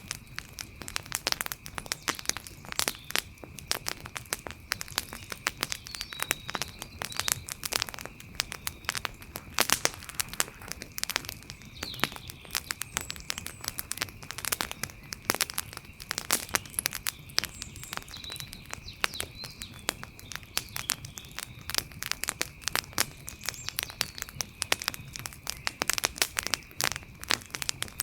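Wood fire crackling and popping, with dense irregular snaps. A steady high-pitched drone runs underneath, and a few faint chirps come and go.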